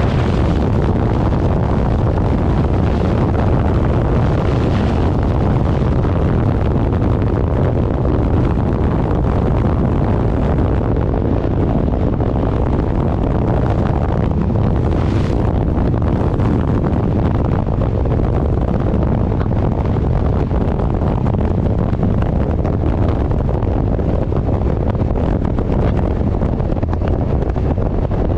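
Steady wind rushing over the microphone on a moving vehicle at speed, with engine and road noise underneath and a few brief hissing swells.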